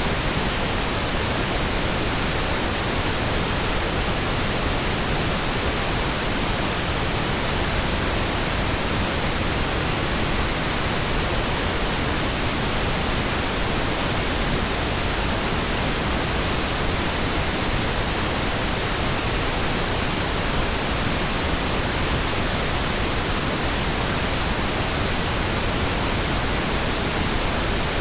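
Pink noise: a steady, even hiss spread across all pitches, with no changes.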